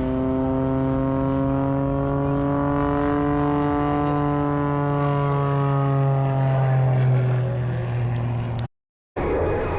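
A propeller aircraft's piston engine droning steadily in flight, its pitch rising slightly and then sinking. Near the end it cuts out abruptly for about half a second, and a rougher, noisier engine sound follows.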